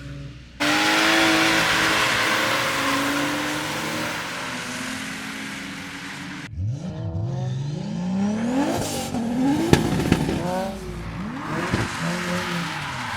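Drift cars sliding at high revs: tyre squeal over a running engine, with the sound cutting abruptly between passes twice. After the second cut an engine revs up and down over and over, with two sharp cracks around ten seconds in.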